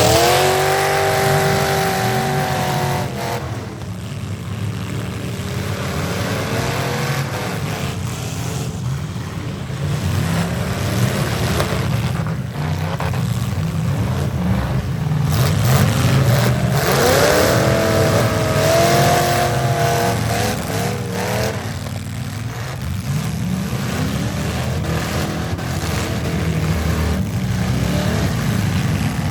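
Several demolition derby cars' V8 engines running and revving hard over a steady low rumble, with two sharp rev-ups near the start and about two-thirds through. Scattered knocks of cars colliding are heard.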